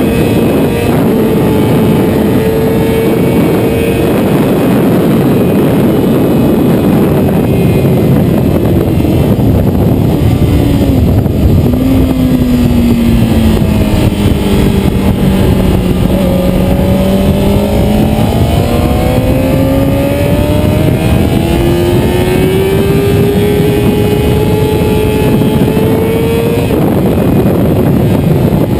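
Motorcycle engine running hard at track speed under a loud, constant rush of wind noise. About halfway through the engine note drops to a low point, then rises steadily again.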